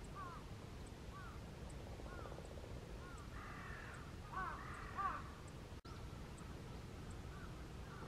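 Bird calls: short arched notes about once a second, then a louder cluster of harsher calls around the middle, over a steady low rumble.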